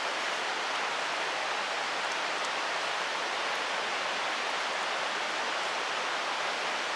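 Mountain stream rushing steadily, a constant wash of flowing water.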